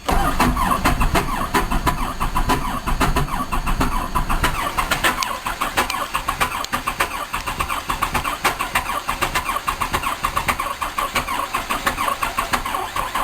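Diesel engine being cranked and trying to start in severe cold, a fast, even rhythm of strokes.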